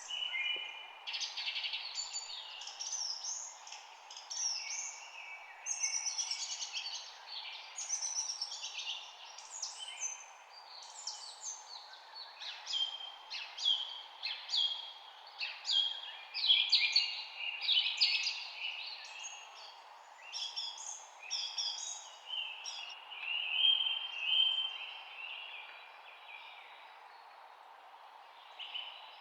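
Several songbirds chirping and singing in a quick, busy chorus of short high notes and quick downward-sweeping phrases, over a steady low hiss of background noise; the singing thins out near the end.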